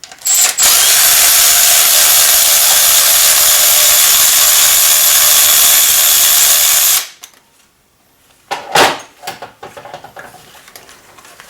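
A power tool running steadily for about six and a half seconds, taking out the number 2 spark plug, then stopping abruptly. A single short knock follows about two seconds later.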